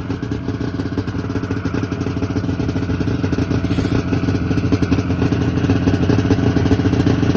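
1994 Yamaha VMax 600 snowmobile's two-stroke engine running steadily while it warms up after a cold start, growing a little louder toward the end. To those listening, it sounds like it needs lots of work.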